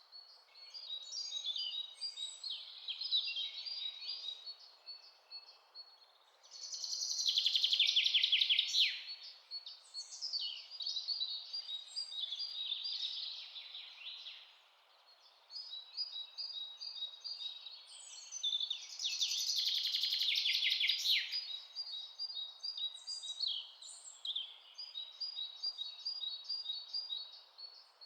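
Several birds chirping and calling, a steady chatter of quick high notes, with two louder song phrases about seven and nineteen seconds in, each a fast run of notes falling in pitch. A faint steady hiss lies underneath.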